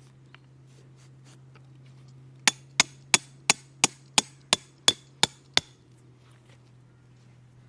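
Ten sharp knocks in a quick, even rhythm, about three a second, over a faint steady low hum.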